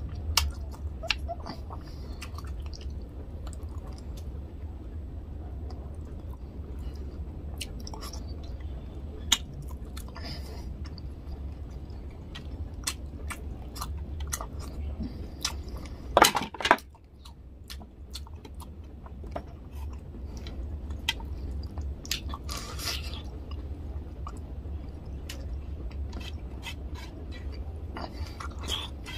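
Close-miked chewing and wet mouth smacks of a man eating tilapia fish curry with rice by hand, with sharp clicks scattered throughout and one louder burst about halfway. A low steady hum runs underneath.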